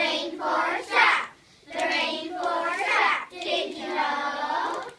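A group of children singing together in phrases, with short breaks between the lines.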